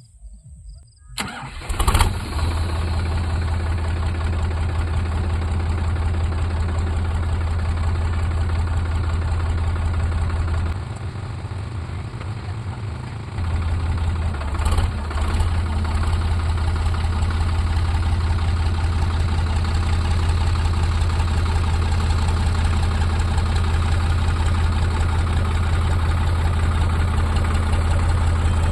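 Sonalika DI 42 RX tractor's diesel engine starting up and then running steadily with a deep, even hum. It eases off briefly a little before halfway, then picks up again.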